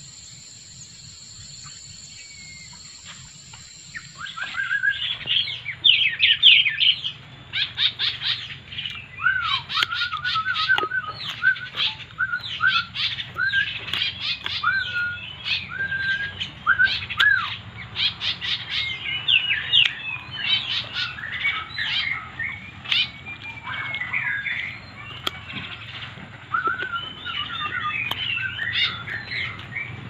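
Several birds chirping and calling together, starting about four seconds in: a dense run of short, high chirps mixed with a repeated whistled note.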